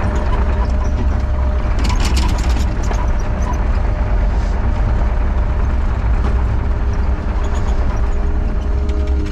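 Heavy earth-moving machine's diesel engine running steadily under load during backfilling. A short burst of clattering comes about two seconds in.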